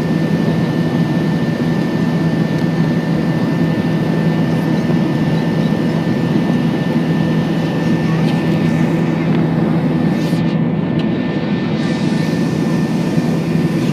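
Airbus A321 jet engines and airflow making a steady, loud drone, as heard from inside the cabin, with a faint steady whine above it.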